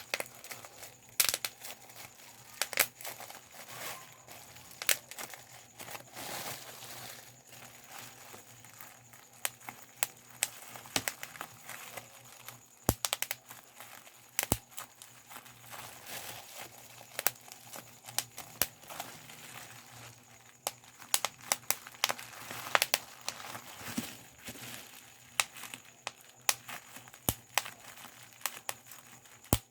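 Bubble wrap being popped by hand: sharp irregular pops, sometimes a quick cluster, over the crinkling of the plastic sheet.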